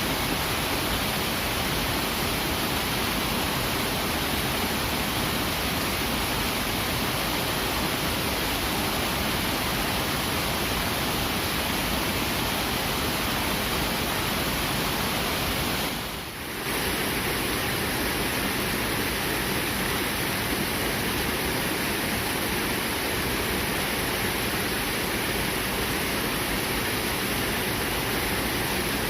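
Clear, fast-flowing river rushing over rocks in a steady, even torrent. The sound dips briefly for a moment about halfway through, then carries on.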